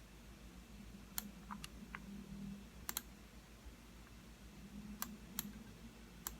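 Computer mouse buttons clicking, single clicks spaced irregularly a second or so apart, with a quick double click about three seconds in, over a faint low hum.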